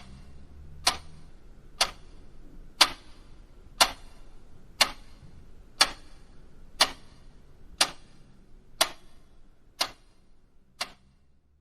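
Clock ticking steadily at one sharp tick a second, fading a little near the end.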